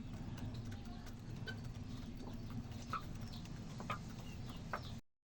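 Hens feeding on scattered grain: a few short, sharp pecks and brief soft clucks over a low steady hum. The sound cuts off suddenly near the end.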